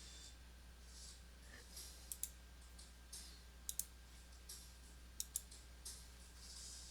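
Faint clicking: three pairs of sharp clicks about a second and a half apart, with soft rustling between them.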